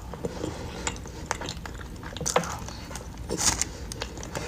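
Eating sounds: cutlery clicking and scraping against a dish, with scattered short clicks and a couple of brief noisy rustles.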